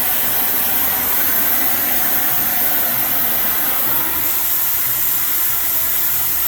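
Oxyacetylene torch flame hissing steadily as it heats the high spot of a driveshaft tube to straighten it.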